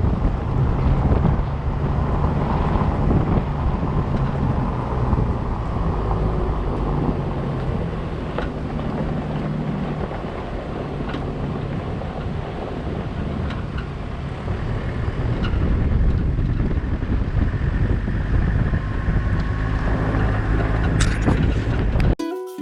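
Vehicle engine running with wind buffeting the microphone, a steady low rumble with a faint engine hum underneath. It cuts off suddenly near the end as music begins.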